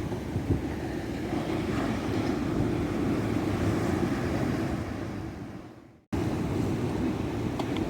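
Ocean surf washing onto a beach, a steady rush of waves with wind on the microphone. About three-quarters through it fades out to a moment of silence and then cuts straight back in: an edit join in the recording.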